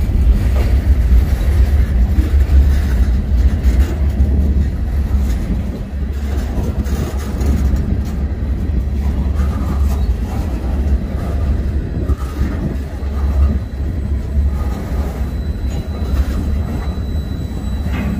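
Freight train rolling past on the rails, a steady low rumble throughout.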